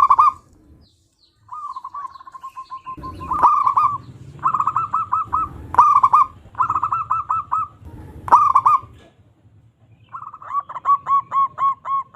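Zebra doves (perkutut) cooing: phrase after phrase of quick rolling notes with short pauses between, the last phrase near the end longer than the rest.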